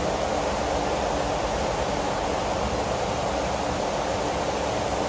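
Heavy rainstorm: a steady, even hiss of rain falling.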